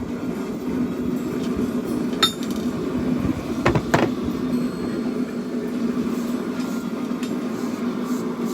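Hammer striking hot steel on an anvil during forging: a sharp ringing clink about two seconds in, then two quick knocks about a second and a half later, over a steady low drone.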